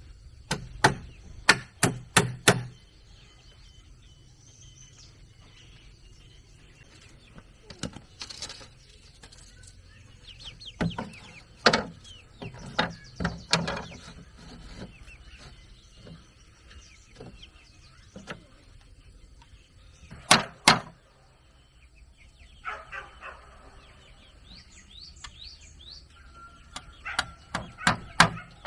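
Quick runs of sharp blows of a tool striking wood, several strokes in each run, with pauses of several seconds between runs. Chickens cluck and small birds chirp in the quieter gaps.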